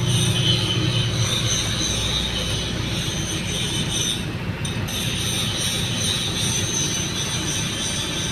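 Strong wind buffeting the microphone: a steady, fluttering low rumble with a hiss above it.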